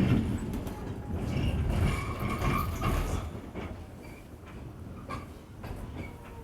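Noise of an R46 subway car: rumble and clatter with scattered knocks and faint steady tones, growing quieter after about three seconds.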